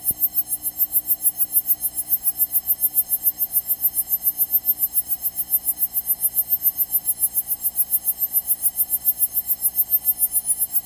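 Electrical buzz on the aircraft's intercom audio feed, pulsing evenly about seven or eight times a second.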